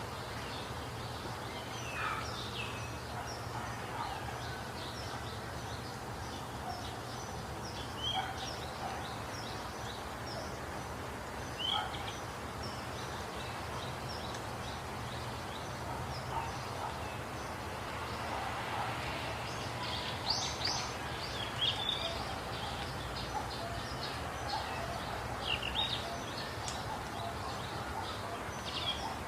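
Several birds chirping and calling in a busy chorus of short notes, with louder, denser calls about twenty seconds in and again near the end, over a steady low background rumble.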